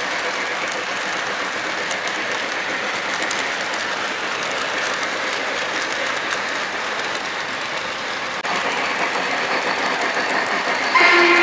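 Lionel LionChief Pere Marquette 1225 O-gauge model steam locomotive running on track, a steady rolling and running noise. Near the end a loud steam whistle sounds.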